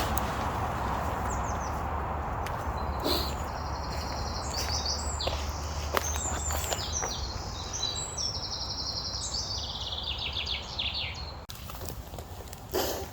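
A small songbird singing a long song of rapid, high trilled phrases that step down in pitch toward the end, over a steady background hiss. A few sharp snaps or cracks stand out, the loudest near the end.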